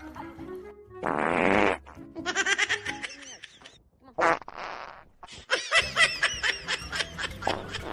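People laughing in short bouts, with a loud, short noisy burst about a second in.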